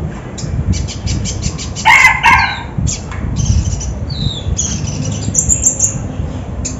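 Konin songbird singing: quick runs of sharp chirps and short falling whistles, with a louder, harsher call about two seconds in, over a steady low rumble.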